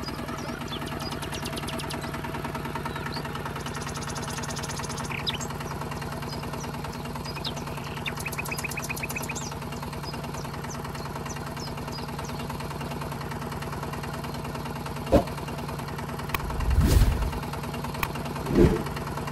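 Small motor running steadily with a fine rapid ticking, the sound of a DIY miniature tractor's drive. Several heavier thumps come near the end, and small birds chirp faintly.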